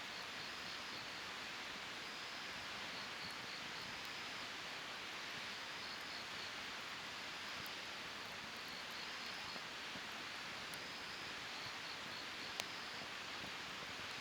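Wood campfire burning with a steady hiss and a few faint crackles, and one sharp pop about twelve seconds in. A faint, high chirping pattern repeats every couple of seconds behind it.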